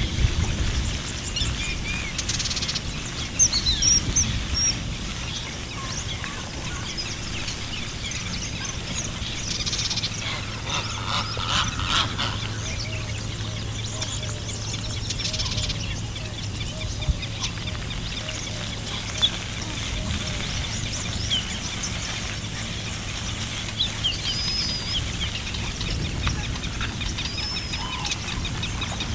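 Assorted birds chirping and calling, with a few sharp knocks about three to four seconds in and a low steady hum from about ten seconds in.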